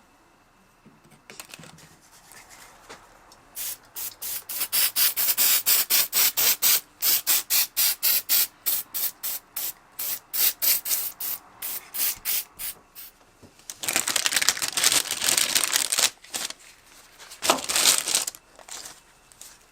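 CA glue accelerator sprayed onto freshly glued brass-lined desert ironwood handle scales: a fast run of short spray puffs, about three or four a second, then two longer hissing sprays near the end.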